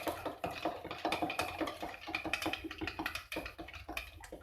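Stirring utensil scraping and clicking against a bowl in quick, irregular strokes, mixing powdered marinade into water.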